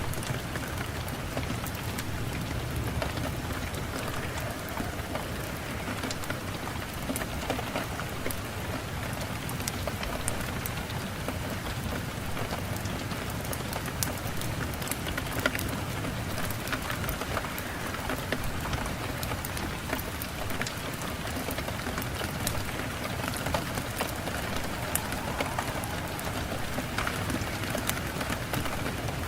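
Steady rain falling, with the sharp ticks of single drops scattered through it.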